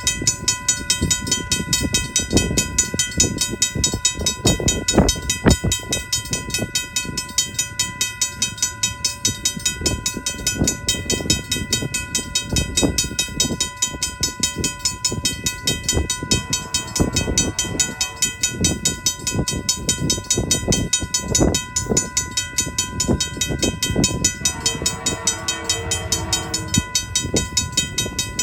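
Train rolling past close by, its wheels clattering and knocking over the rail joints in a quick uneven rhythm. Two short horn-like tones sound over the clatter, about two-thirds of the way through and again near the end.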